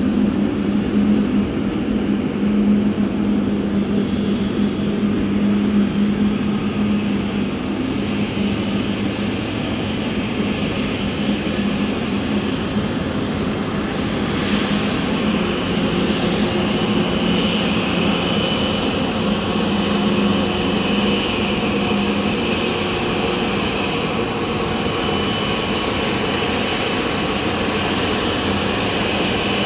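Boeing 777-300ER's GE90-115B turbofan engines running with a steady jet roar and a low drone. A high fan whine comes in about halfway through.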